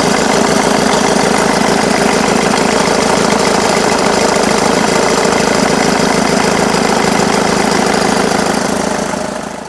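Jaguar X-Type 2.2 diesel engine running steadily at idle, heard close up; it fades out near the end.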